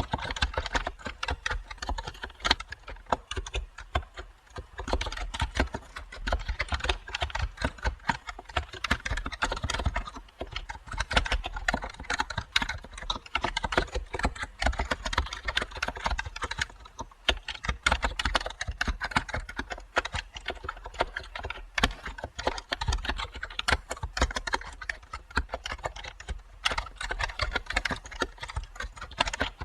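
Continuous typing on a computer keyboard: rapid, uneven keystroke clicks with brief pauses between runs.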